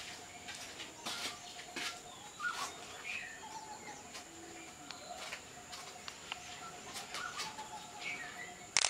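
Birds chirping, many short, sharp chirps over a steady faint high-pitched tone, with one brief loud noise just before the end.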